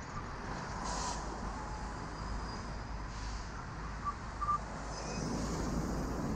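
Street traffic and wind on the microphone heard from a moving bicycle, a steady low rumble. Two short high beeps sound about four seconds in.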